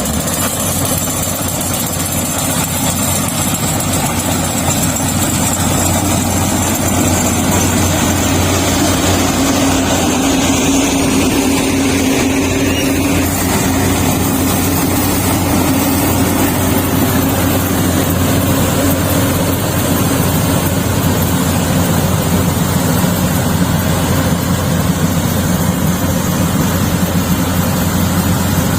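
Yanmar YH850 rice combine harvester's diesel engine and machinery running steadily with a constant low hum and a broad mechanical rush.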